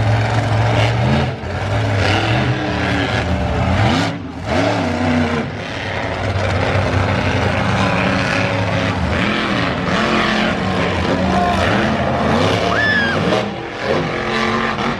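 Monster truck engine revving hard, its pitch climbing and falling again and again. It is loud and continuous, with brief dips when the throttle comes off.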